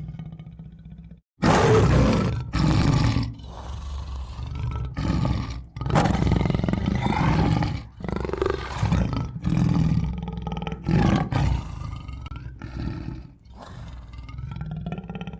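Big cat, a tiger, roaring and growling. After a low growl and a brief pause about a second in, a string of loud roars follows, with rumbling growls between them.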